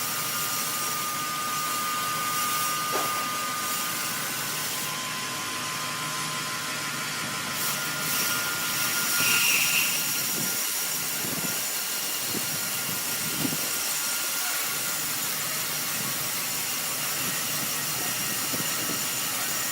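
A woodworking power tool running steadily: an even hiss with a faint high whine through the first half and a few light knocks around the middle.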